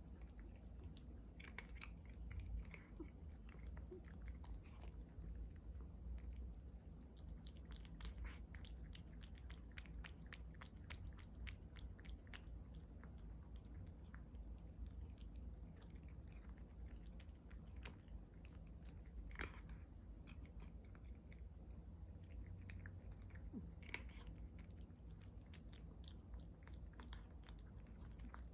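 A cat chewing and crunching food, with many small crunches close to the microphone in a small room.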